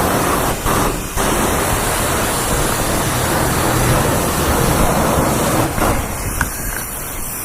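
Self-serve car wash high-pressure rinse wand spraying water onto a motorcycle: a steady, loud hiss of spray that breaks off briefly a couple of times.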